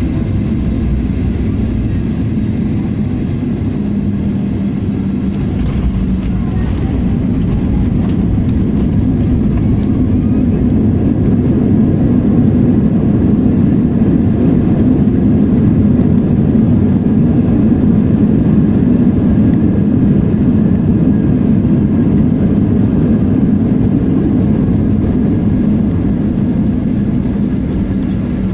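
Inside the passenger cabin of a Boeing 737-900ER jet: the steady, loud rumble of the engines and the rushing air, swelling somewhat in the middle, with a few faint clicks.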